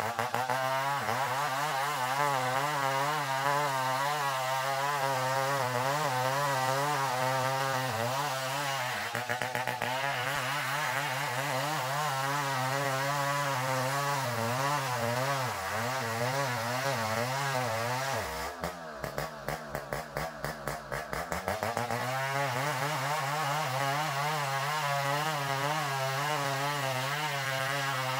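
Engine-driven saw running steadily while cutting an ulin (ironwood) log. About 18 seconds in the engine drops to a lower, pulsing idle, then revs back up about 22 seconds in and runs steadily again.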